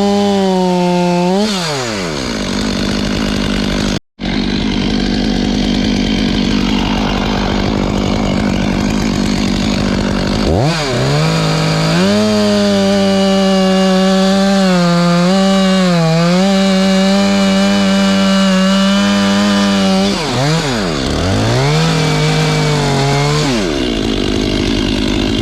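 Two-stroke chainsaw revved and let back down. It is held at high revs for about eight seconds from around eleven seconds in, with slight dips in pitch, then blipped once more before dropping back. The sound cuts out very briefly about four seconds in.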